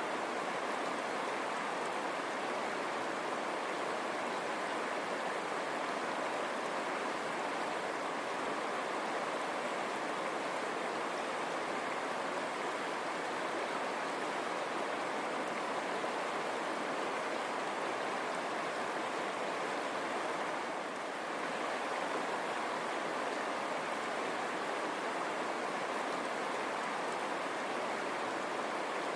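River water running and rushing over stones, a steady even flow with a brief slight dip about two-thirds of the way through.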